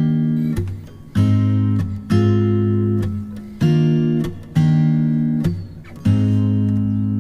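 Background music: an acoustic guitar strumming slow chords, each one left to ring and fade before the next.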